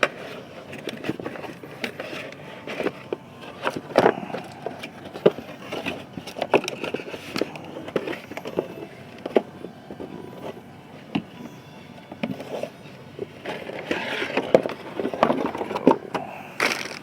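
Unpacking handling noise: irregular clicks, knocks and rustling as packaging and the grinder's parts are picked up and moved, busier again near the end.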